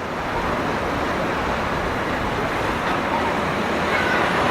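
Steady street traffic noise that slowly grows louder as a Tatra T3 tram approaches, with faint high squealing tones near the end.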